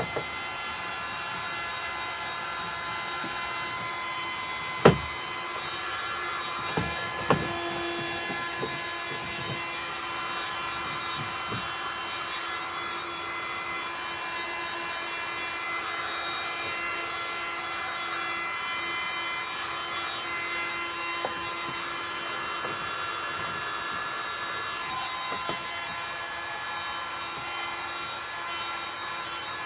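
Electric heat gun running steadily, its fan motor giving a steady whine with several fixed tones over a hum of rushing air, as it heats a plastic pipe rib for bending. A sharp knock about 5 s in and another about 7 s in.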